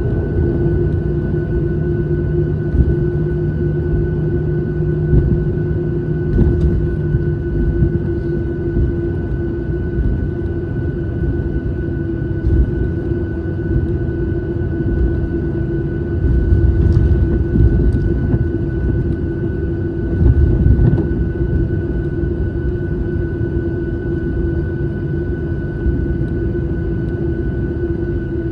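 Airliner's engines and airflow heard inside the passenger cabin: a steady drone with a constant mid-pitched whine and a higher tone above it. A lower hum drops out about seven seconds in, and the low rumble swells for a few seconds in the second half.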